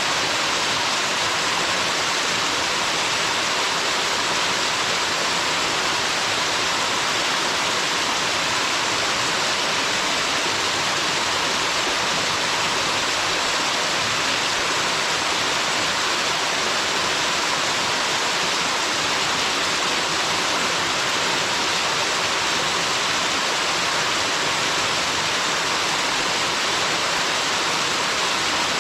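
Waterfall with water jetting out forcefully, a steady, even rush of falling water that is mostly a bright hiss with little low rumble.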